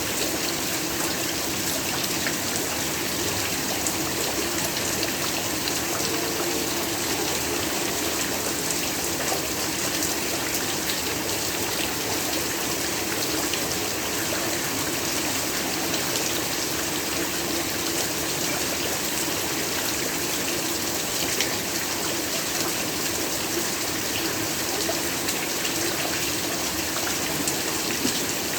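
Steady heavy rain falling, an even hiss with many small drop ticks.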